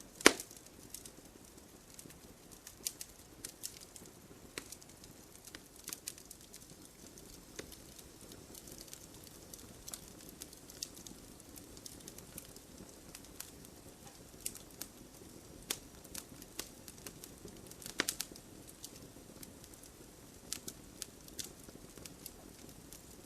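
Wood campfire crackling: irregular sharp pops and snaps over a soft steady hiss. A loud pop comes just after the start and another around eighteen seconds in.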